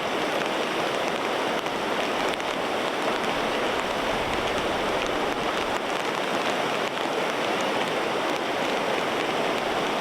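Steady rain falling, an even, constant hiss with no separate knocks or changes.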